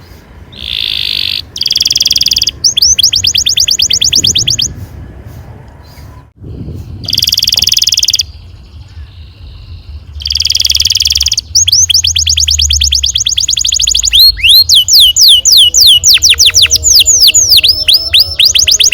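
Domestic canary singing: phrases of fast rolled trills and buzzy notes with short pauses between them, then, about three-quarters in, a run of quick downward-sweeping whistled notes.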